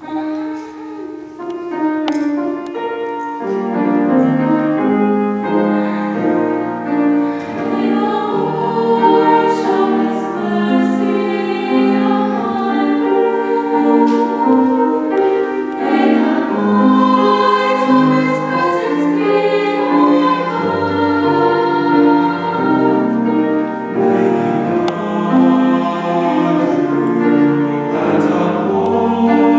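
Mixed chamber choir singing a slow hymn-like song in harmony, with piano accompaniment; the voices come in softly at the start and grow fuller over the first few seconds.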